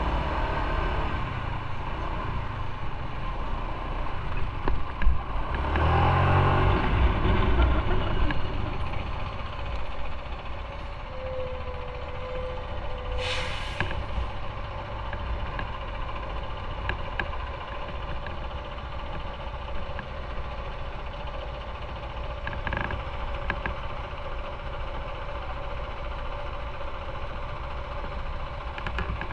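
Road traffic with a heavy vehicle passing loudly about six to eight seconds in. A short hiss like an air brake comes about thirteen seconds in, then a steady engine hum at low revs.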